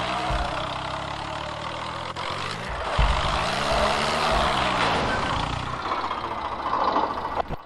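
Tractor diesel engine running hard, its pitch rising and falling once as it is revved up and eased back. The sound drops away suddenly near the end.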